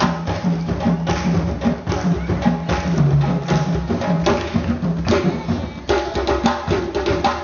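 Drums and percussion playing a fast, driving African dance rhythm, with dense repeated strokes over a recurring deep drum tone.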